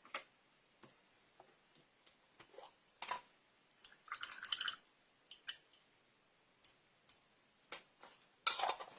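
Scattered light clicks and taps of small craft supplies being handled on a desk, with a short rustle about four seconds in.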